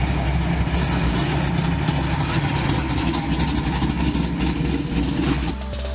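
Pontiac GTO's V8 engine rumbling as the car drives by, a loud, deep, steady exhaust note.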